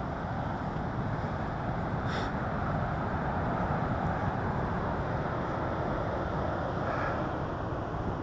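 Steady rush of wind over the microphone and rolling noise from a mountain bike in motion on the trail, with one faint tick about two seconds in.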